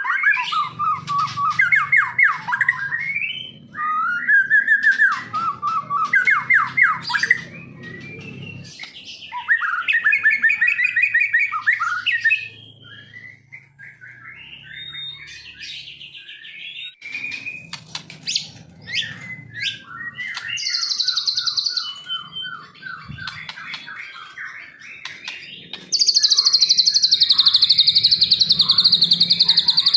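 Songbird singing a string of fast trilled and warbled phrases, with a quieter stretch in the middle. About 26 s in, a loud, continuous, very high trill starts and slides down in pitch near the end.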